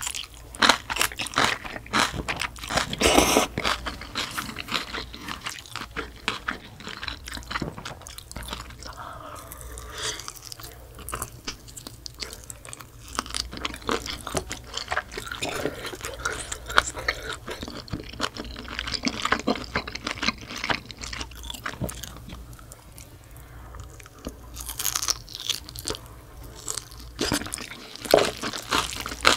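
Close-miked chewing of a mouthful of spicy mixed noodles with young radish kimchi, with crunching and wet mouth sounds. It is busiest in the first few seconds and again near the end, with a quieter stretch in between.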